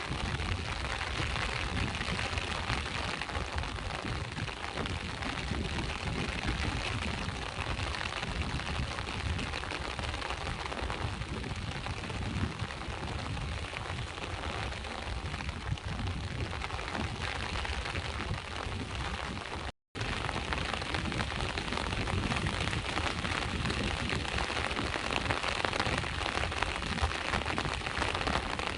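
Steady rain falling, with sea waves washing in underneath as a low rumble. The sound cuts out completely for a split second about two-thirds of the way through, then resumes unchanged.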